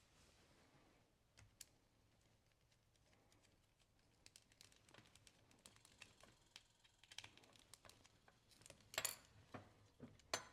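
Faint, irregular small clicks and taps of belt hardware and tools being handled on a workbench, growing busier in the second half with a louder cluster of clicks about nine seconds in.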